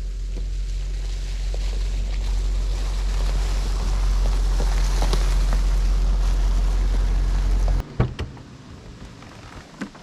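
Steady low rumble of road and engine noise inside a moving car, cutting off abruptly about eight seconds in and giving way to a much quieter stretch with a few light clicks.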